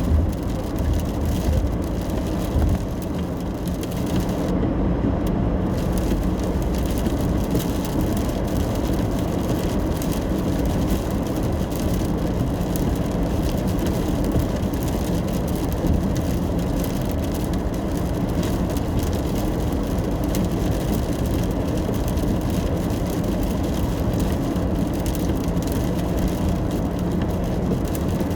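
Steady car road noise heard from inside the cabin while driving in the rain: a continuous low rumble of tyres and engine with a faint steady hum. The higher hiss drops out briefly about five seconds in.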